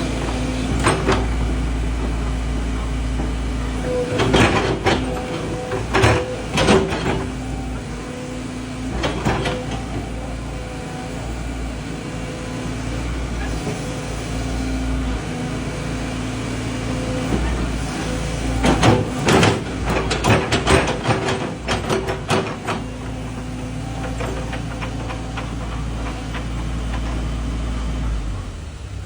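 Volvo excavator's diesel engine running steadily with its newly fitted hydraulic pump, with clusters of knocking and clatter a few seconds in and again about two-thirds of the way through. The pump's earlier 'wang wang' whine is no longer there: the pump noise is cured.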